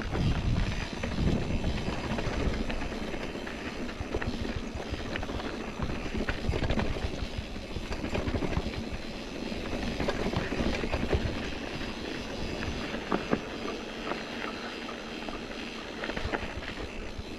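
Mountain bike rolling fast over a rough dirt and rock trail: tyres crunching and the bike rattling with many small knocks, over a steady rumble.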